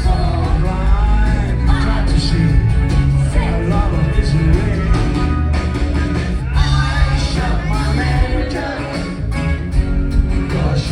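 Live rock band playing, with bass, drums and guitar under a lead vocal.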